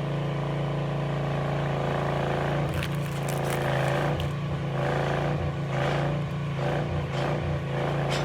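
A steady low mechanical hum, with soft rustling and scraping of MRE packets being handled at intervals.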